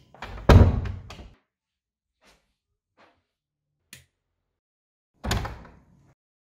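Interior door with a lever handle shut with a thud and latch click about half a second in. A few faint clicks follow, one as the light switch is flipped. The door thuds again with its handle and latch a little after five seconds.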